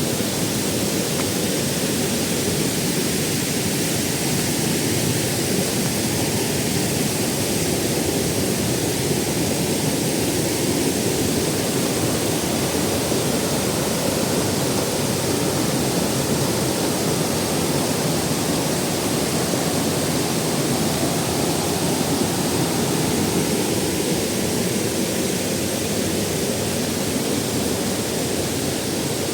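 Waterfall: water rushing and splashing steadily, an even unbroken roar of falling water.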